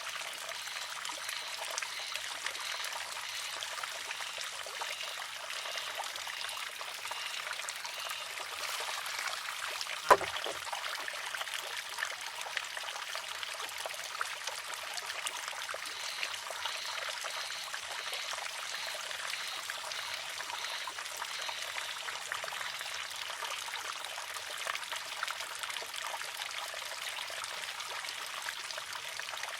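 Water trickling and splashing steadily from a wooden shishi-odoshi's spout, with a single sharp wooden clack about ten seconds in as its water-filled arm tips, empties and strikes the rock.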